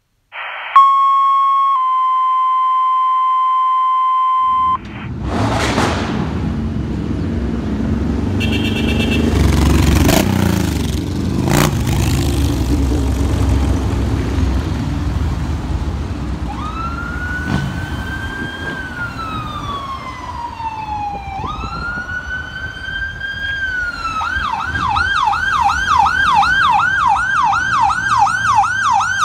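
A fire engine pulling out on a call: after two steady pitched tones lasting about four seconds, its diesel engine runs loudly with a few sharp bangs. From about 16 s in, its electronic siren wails up and down twice, then switches to a fast yelp.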